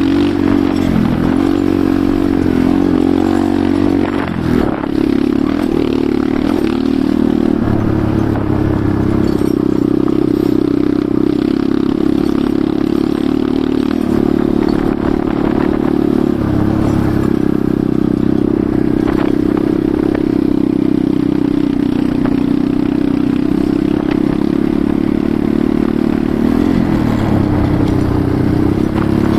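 Enduro motorcycle engine running while riding. Its pitch rises and falls over the first few seconds and again near the end, and holds steady in between, with rattling from the bike over rough ground.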